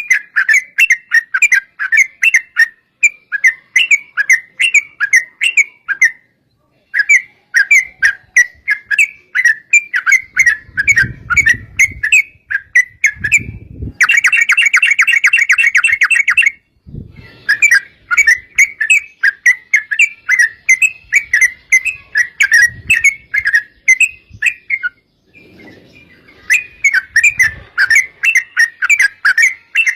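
Yellow-vented bulbul (trucuk) calling in rapid chattering series of bubbly notes, about four a second, with a dense, fast run about halfway through.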